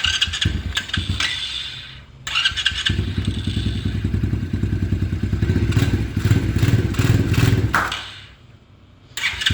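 A cold, unridden dirt bike engine being started. It sputters, then catches and runs with a rapid pulsing beat, dies away about eight seconds in, and fires up again near the end. It is slow to start and takes a while to warm up.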